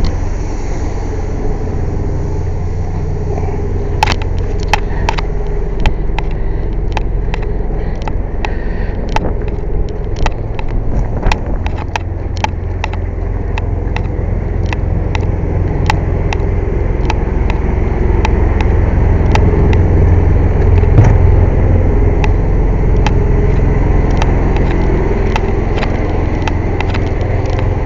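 Steady low drone of a running air compressor, growing a little louder in the second half, with many irregular sharp clicks and knocks over it, thickest in the first half.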